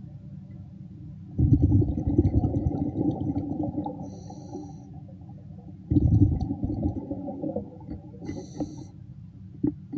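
A diver breathing underwater through a regulator. Twice, a long burst of rumbling exhaled bubbles is followed by a short inhaling hiss from the regulator.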